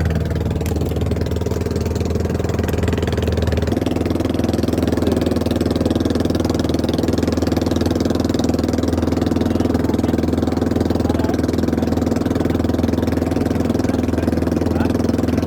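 Small fishing boat's motor running steadily, its note changing about four seconds in.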